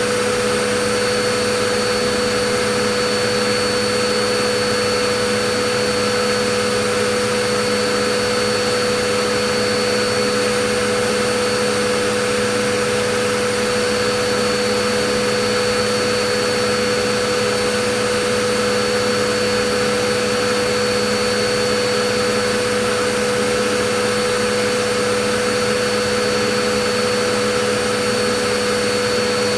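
Vacuum cleaner motor running steadily, a constant whooshing rush with a steady hum near 500 Hz and no change in pitch or level.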